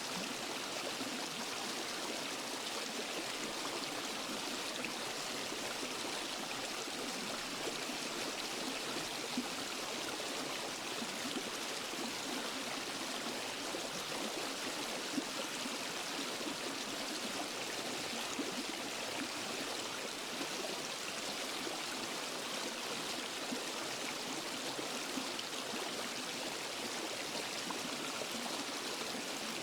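Steady rushing of a waterfall and stream flowing over rocks, an even hiss with small splashes here and there.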